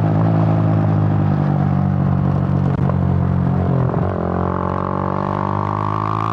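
Suzuki GN125's single-cylinder four-stroke engine running steadily under way, a low droning note. About four seconds in the pitch dips briefly, then climbs gradually as the revs pick up.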